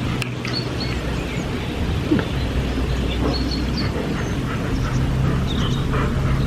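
Birds chirping, many short calls, over a steady low hum.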